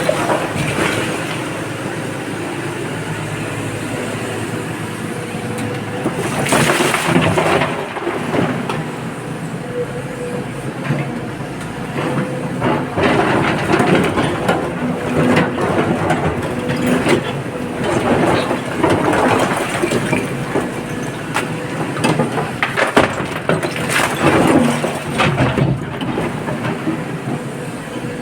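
Excavator working as it loads a dump truck: a steady engine note under a continual rattle and clatter of rock and dirt, rising in several louder spells a few seconds long.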